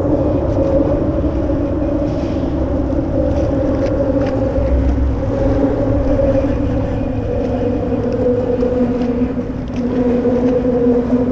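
A boat motor running steadily: a droning hum whose pitch wavers slightly, over a low rumble.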